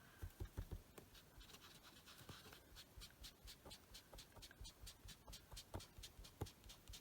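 Faint, quick strokes of an inked foam dauber dabbing and rubbing on card stock, about three to four a second, as ink is blended over the card around paper masks.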